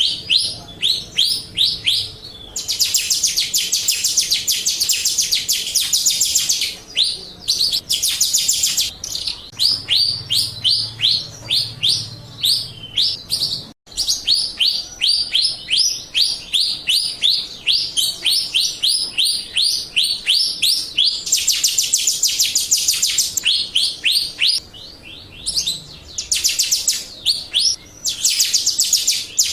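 Jalak rio starling song: runs of rapid, falling chirps, several a second, alternating with stretches of dense, fast trill. It is a lure recording (pancingan) meant to set other jalak rio birds calling.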